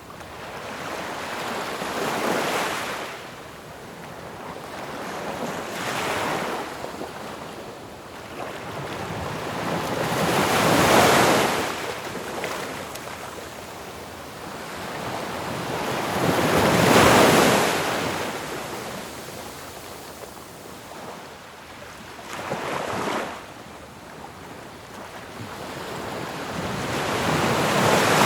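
Ocean surf: waves breaking in turn, each one a rush of noise that swells and ebbs away, about every five or six seconds. The largest two break about a third and two thirds of the way through.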